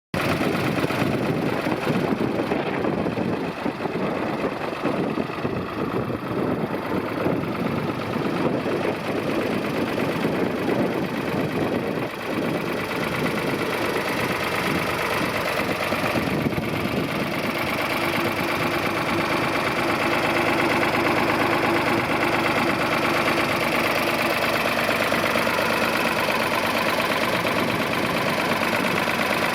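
Ford 2000 tractor's three-cylinder engine running, settling into a steadier, slightly louder note about two-thirds of the way through.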